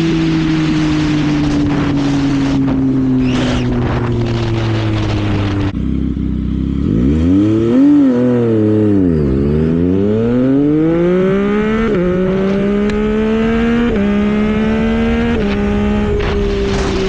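Yamaha MT-09 three-cylinder motorcycle engine heard while riding, with wind noise. The engine note sinks as the bike slows, and the wind dies away about six seconds in. The revs then rise and fall around eight seconds in. After that the bike pulls away hard, going up through the gears: three rising climbs, each ended by a sudden drop in pitch at an upshift. Near the end it settles into a falling note with wind noise again.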